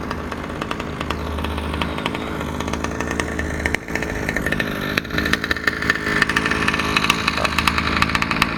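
Small two-stroke gas engine of an HPI Baja 5B (OBR engine, new 990 carburettor) running steadily, getting a little louder in the second half. The clutch pinion has come off, so the engine is driving nothing.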